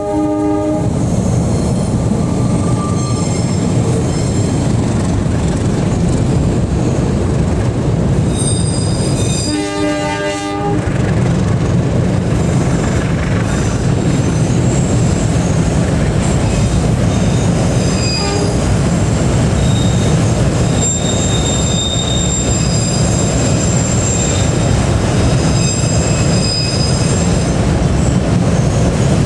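Train passing close by: its horn sounds briefly at the start and again for about two seconds a third of the way in, over the steady rumble of the wagons on the rails, with high wheel squeal through the second half.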